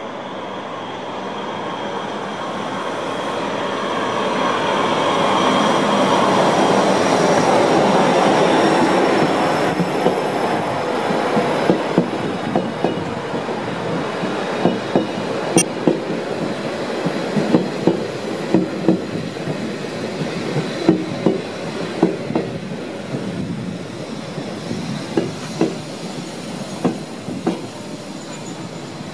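Matterhorn Gotthard Bahn narrow-gauge train, a Deh 4/4 electric motor car leading, pulling into the station. A high whine and wheel squeal grow louder and drift slightly lower in pitch, then give way to irregular clicks of the wheels over rail joints and points as it slows.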